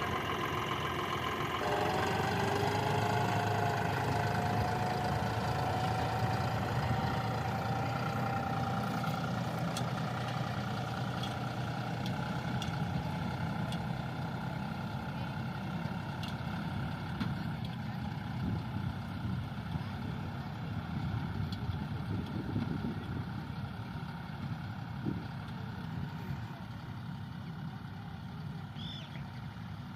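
John Deere 5405 tractor's common-rail diesel engine running, its pitch rising about two seconds in and then holding steady, growing slightly fainter toward the end.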